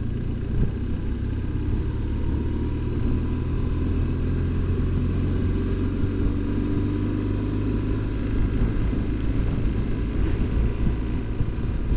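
BMW R1200GS Adventure's flat-twin boxer engine running at a steady cruise while riding, with steady road and wind noise underneath.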